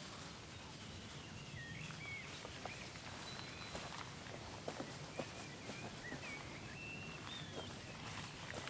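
Small birds chirping on and off in short, quick whistled notes over a faint outdoor hiss, with a few soft clicks.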